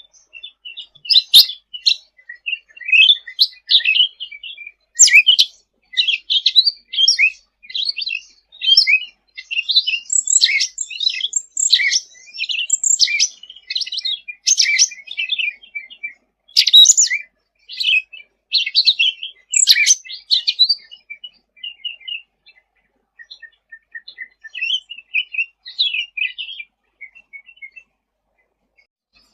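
Cucak ranting (cucak rante) songbird singing lively: rapid runs of short, high chirps and trills, dense and loud at first and thinning out to scattered softer notes after about twenty seconds.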